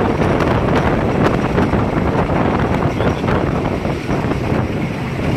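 Thai diesel railcar running along the line, heard from inside a third-class carriage: a steady loud rush of wind and running noise, with frequent short knocks and rattles from the wheels and carriage.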